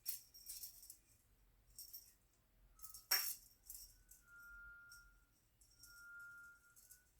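Cat teaser wand toy jingling and rattling in several short bursts as it is flicked about, the loudest about three seconds in. In the second half come two drawn-out high steady tones, each about a second long.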